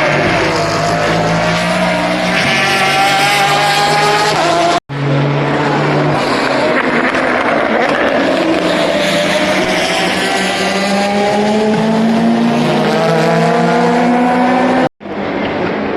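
Endurance race car engines at full speed, several cars overlapping, their pitch climbing as they accelerate through the gears. The sound cuts off abruptly twice, about five and fifteen seconds in, between clips.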